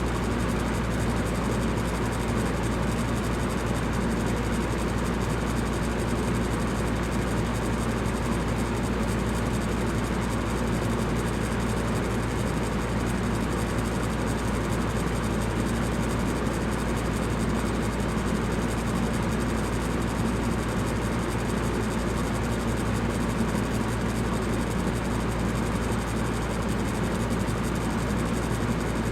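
Electric fan running steadily: an even whooshing rush of air with a low hum underneath.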